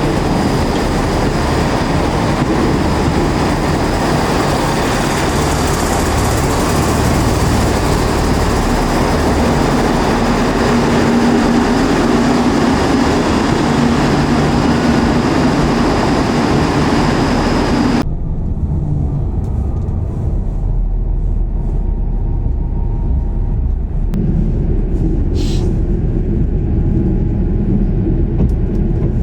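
Transport for Wales Super Sprinter diesel train running, a dense steady rumble with a faint steady whine. About 18 seconds in it cuts off suddenly to a quieter low rumble.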